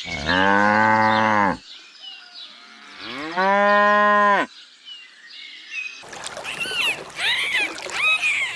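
A cow mooing twice, each moo a long, steady, low call lasting over a second. About six seconds in, quick high-pitched calls repeating several times a second take over.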